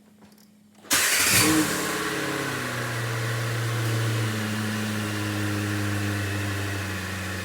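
2006 Chevrolet Corvette's V8 engine starting about a second in, flaring briefly, then settling to a steady idle.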